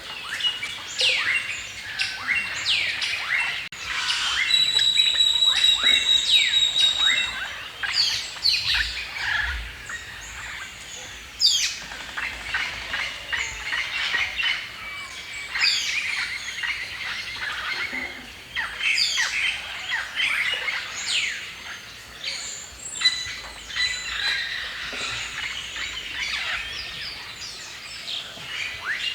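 Several songbirds chirping and singing at once in a forest chorus, with quick sweeping calls overlapping throughout. A run of rapid even-pitched notes stands out for a few seconds near the start.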